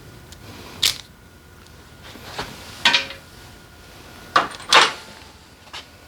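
Irregular metallic clinks and clanks of hand tools and engine parts being handled during motorcycle engine disassembly: about six sharp strikes.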